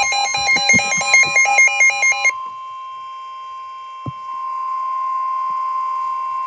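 Emergency Alert System warning tones. A beeping tone alternates rapidly between two pitches, about five changes a second, over a steady single tone. From about two seconds in the steady tone sounds alone, then it cuts off abruptly at the end.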